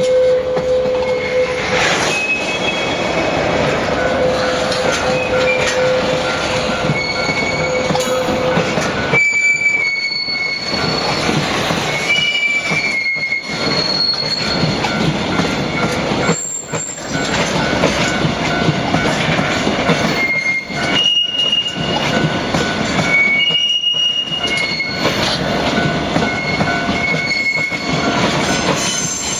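Freight train rolling past, its wheels giving many short high-pitched squeals over the steady rumble of the wagons.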